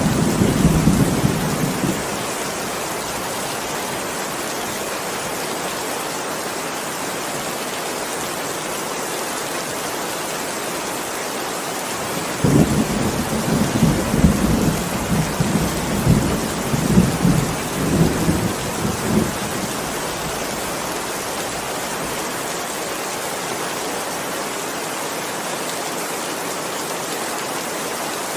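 Steady heavy rain, with rolling thunder rumbling at the start and again for several seconds about halfway through.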